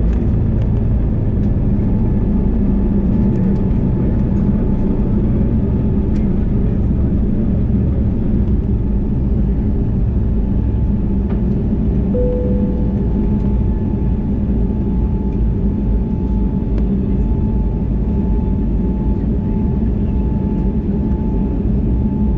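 Steady low rumble of an Airbus A321neo's engines and airflow heard inside the passenger cabin, with a faint steady tone that becomes clearer in the second half and a brief short tone about halfway through.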